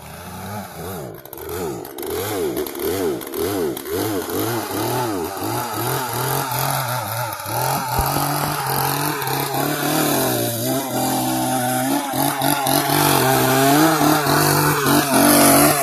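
Gas chainsaw engine revving up and down in quick swings, then held at a steady high speed from about halfway, getting louder near the end.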